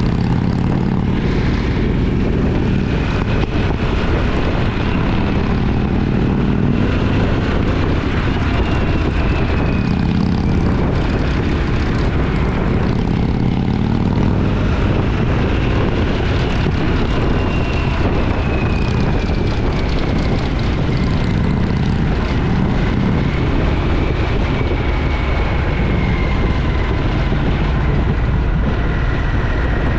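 Motorcycle engine running steadily at cruising speed, with wind and road noise, and a faint whine that slowly rises and falls.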